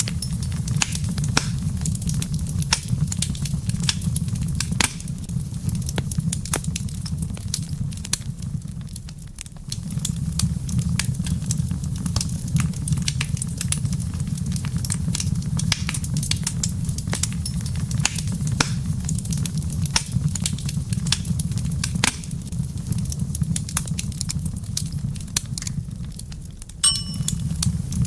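Wood fire crackling in a fireplace: a dense run of sharp pops and snaps over a steady low rumble of flame. The rumble briefly dips twice, and a short high-pitched tone sounds near the end.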